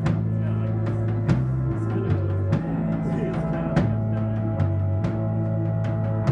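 Live rock band playing an instrumental passage: a bass line stepping between held low notes under scattered drum and cymbal hits, with sustained guitar tones.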